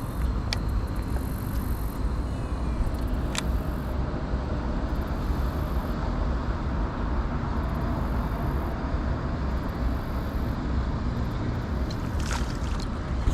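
Steady low rumbling wind noise buffeting the microphone, with a few short sharp clicks now and then.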